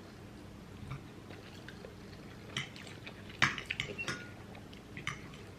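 Faint, scattered clinks and clicks of a fork against a plate while eating pasta, the clearest a few about three and a half to four seconds in.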